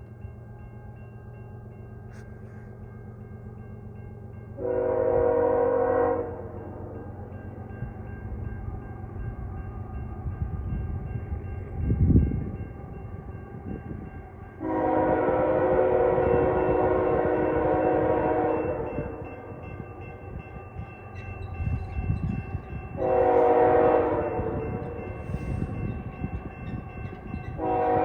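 Diesel freight locomotive's five-chime K5-series air horn sounding for a grade crossing: a short blast, a long one, another short one, and a long one starting near the end. The engine rumbles underneath as the train approaches.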